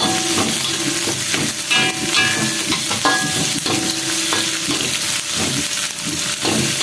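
Sliced shallots, garlic and chilli sizzling in hot oil in a wok, frying until slightly crisp, with a metal spatula stirring them and scraping and clicking against the pan.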